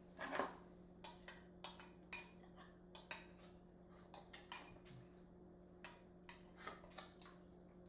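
Spoon clinking and scraping against a bowl in about a dozen quick, irregular clinks as the last of a chia seed and oatmeal pudding is scooped up. A short soft noise comes right at the start.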